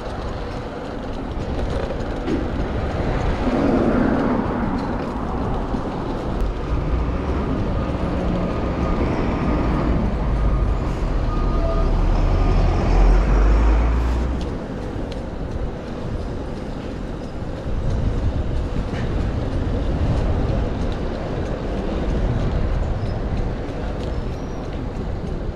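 City traffic noise heard from a moving bicycle, with a steady rush of wind and road noise. A heavy low rumble swells about five seconds in and cuts off about fourteen seconds in.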